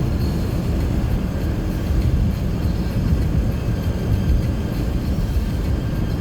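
Car driving on a highway: a steady low rumble of tyre and engine noise, with no change in speed.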